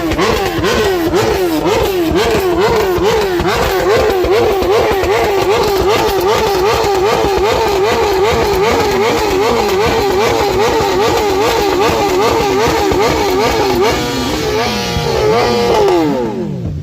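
Inline-four superbike engine being revved in quick, even throttle blips, about two a second, with the revs rising and falling each time. Near the end it holds a couple of longer revs, then the revs drop away.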